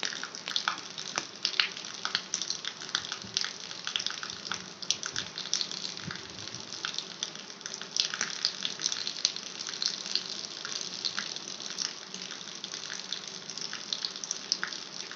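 Water running and splashing: a steady wash of many small trickles and splashes.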